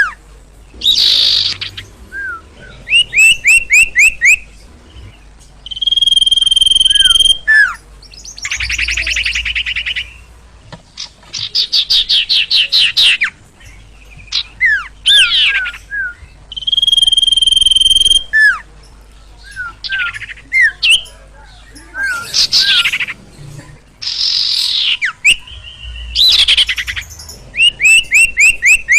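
Sirtu songbird singing loudly and excitedly: long steady whistled notes alternate with rapid chattering trills and short falling notes, in phrases that repeat every few seconds.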